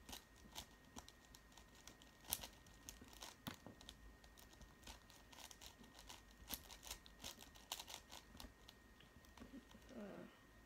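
Faint irregular clicking and clacking of a plastic 5x5 Rubik's cube as its layers are turned quickly by hand.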